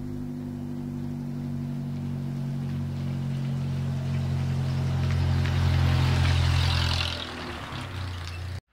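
Vintage car's engine running steadily as the car drives up close and past, loudest about six seconds in, then fading and cutting off suddenly near the end.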